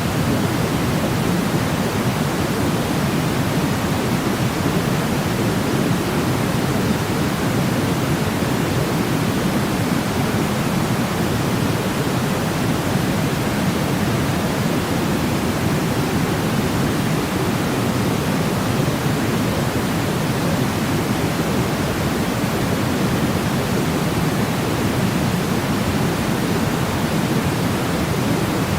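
Steady sleep white noise: an even, unbroken rush, deeper than a plain hiss, that holds the same level without any change.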